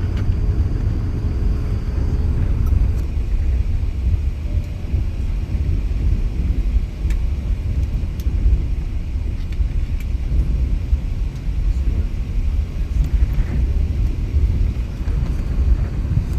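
Steady low rumble inside an Emirates Airbus A380's passenger cabin as the airliner rolls along the ground after landing, with a few faint clicks from the cabin.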